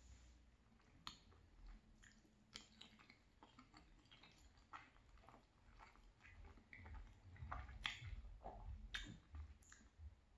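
Close-up chewing of soft cavatappi pasta in creamy tomato sauce: quiet wet mouth clicks and smacks, busier in the last few seconds.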